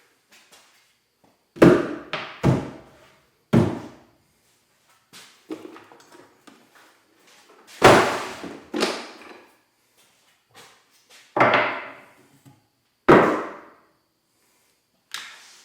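A series of sharp knocks and thuds, about eight loud ones at irregular intervals, each dying away quickly.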